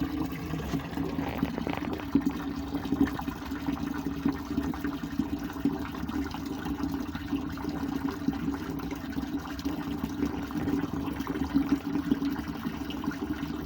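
Ridgeyard portable gas water heater running with water flowing through it: a steady rushing from the lit burner and the running water.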